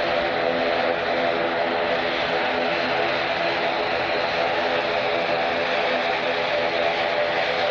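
Jet airliner engines running steadily: an even hiss with several steady tones underneath.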